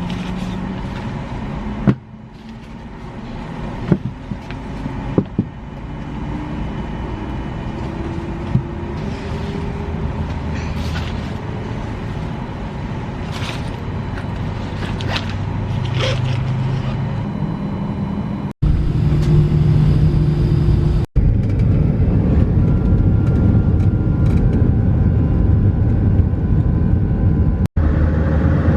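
Vehicle running, its engine tone climbing slowly as it speeds up, with a few sharp clicks. After a sudden break it is followed by louder, steady low rumbling of a vehicle under way, cut off briefly twice more.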